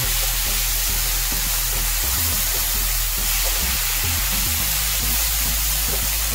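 Rump steak strips and onion sizzling in a frying pan as they are stirred with a spatula, with background music playing underneath.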